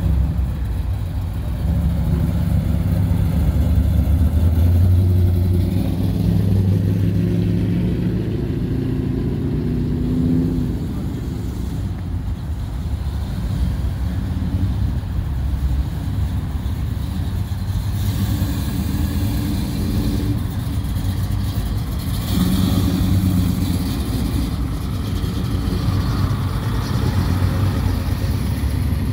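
A line of classic American cars and an old pickup driving slowly past one after another, their engines rumbling and swelling then fading as each goes by. The loudest passes come in the first ten seconds, with another about three quarters of the way through, and a stretch of hiss past the middle.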